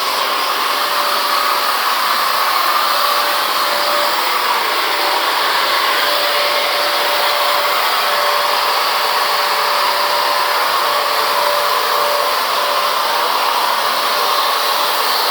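An electric blower-type motor running steadily with a loud rush of air, switched on abruptly at the start, with a faint steady hum underneath.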